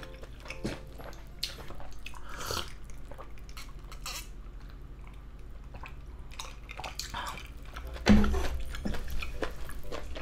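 Close-miked chewing of grilled pork intestines (makchang), with wet clicks and smacks, then gulps of cola swallowed from a glass mug. A single sharp thump comes about eight seconds in.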